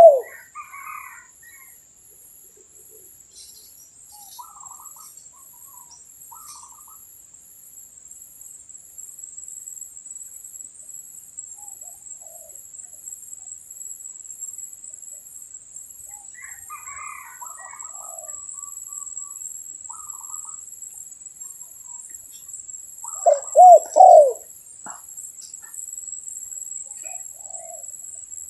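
Spotted dove cooing: a loud two-note coo about three quarters of the way in, with scattered soft chirps of other birds and a steady high-pitched drone behind.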